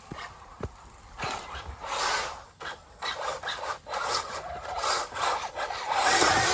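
RC racing buggies running over a dirt trail: tyres scrabbling and scraping on loose dirt in uneven surges, with a few knocks. The loudest surge comes near the end.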